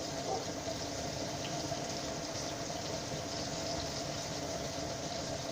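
Pieces of crucian carp frying in oil in a skillet, a steady sizzle.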